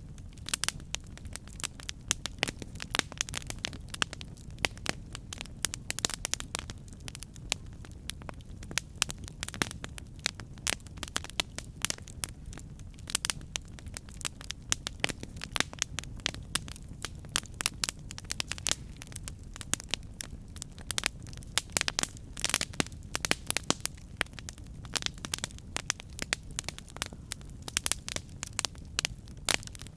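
Campfire burning: dense, irregular crackling and snapping of burning wood over a steady low rumble of the flames.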